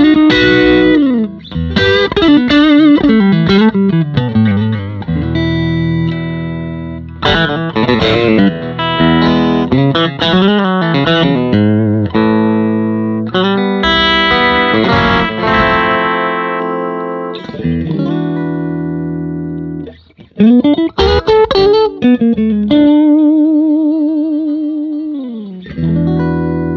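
Electric guitar (a Fender Stratocaster) played through a Fender Silverface Bassman Ten amp: ringing chords and single-note phrases with slides. Near the end come wavering vibrato notes and a slide down in pitch.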